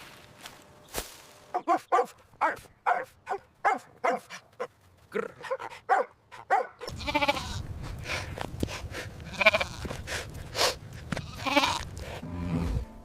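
Bleating farm animals. A quick run of short calls comes first; about halfway through they give way to longer, wavering bleats over a steady low background noise.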